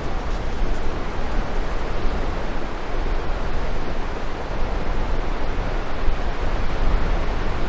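Steady rushing wind, buffeting the microphone with a low, fluttering rumble.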